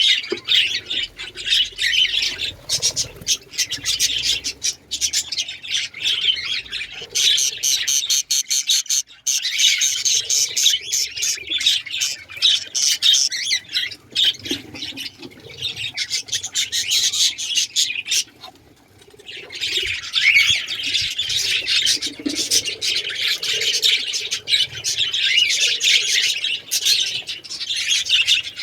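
Caged breeding birds chirping and squawking in a dense, continuous chatter, with a brief lull about two-thirds of the way through.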